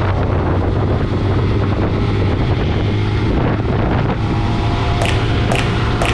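Vehicle engine running at a steady speed under wind noise on the microphone, with a few sharp clicks near the end.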